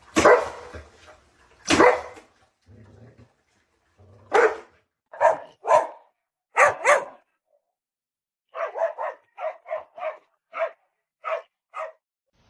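A dog barking: single loud barks spaced about a second apart, then from about eight and a half seconds a quicker run of shorter, quieter barks.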